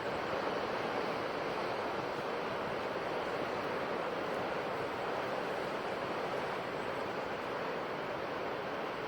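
Ocean surf washing on a shore, a steady rushing noise with no distinct breaks or crashes.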